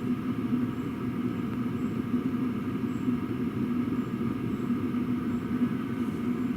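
Diesel air heater running with its exhaust through a single Chinese clone silencer: a steady drone with a humming tone.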